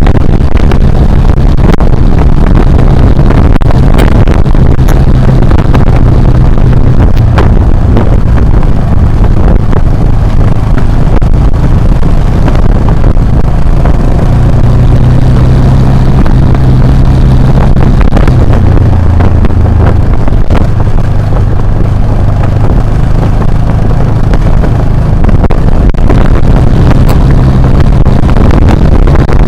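Off-road motorcycle engine running steadily while riding on a dirt track, its pitch rising and falling slightly with the throttle, with scattered sharp knocks.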